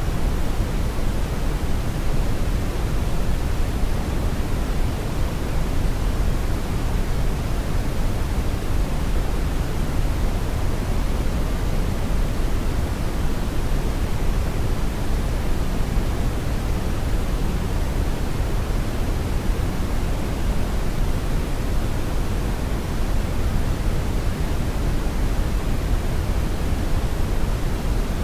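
Brown noise: a steady, even rumbling hiss, strongest in the low end and rolling off toward the highs, unchanging throughout.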